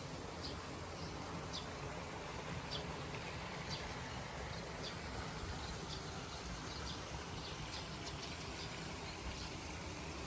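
Outdoor nature ambience: a short, high chirp repeats about once a second over a steady low rushing background.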